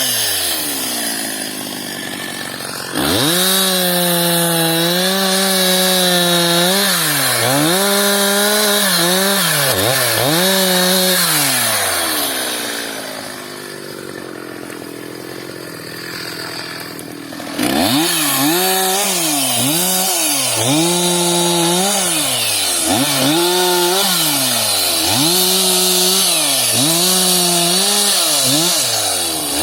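Two-stroke chainsaw making a run of short cuts: the engine revs up to a high, held pitch for about a second at a time under load, then drops back toward idle, over and over. It idles more quietly for a few seconds in the middle before the rapid cuts resume.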